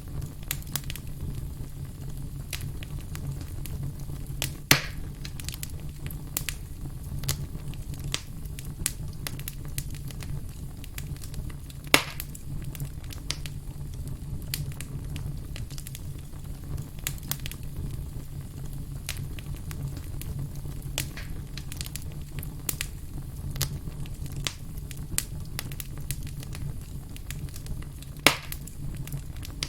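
Wood campfire crackling steadily, with frequent small crackles and three louder pops, over a steady low hum.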